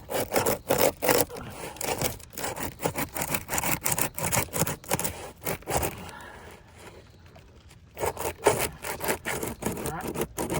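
Asphalt roof shingles being worked loose by hand, with rapid, irregular scraping and rubbing as the tabs are pried up from the course below. The scraping eases off for a couple of seconds past the middle, then starts again.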